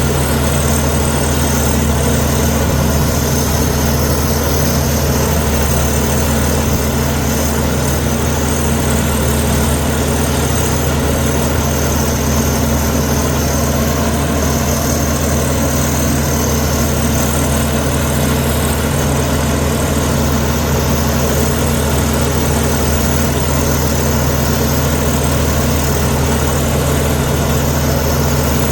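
Komatsu D61EX bulldozer's diesel engine running at a steady speed, a deep, even drone with no revving.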